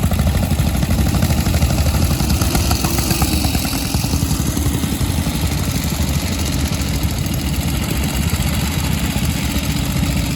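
Veteran motorcycle engine running steadily, with a rapid, even beat of exhaust pulses.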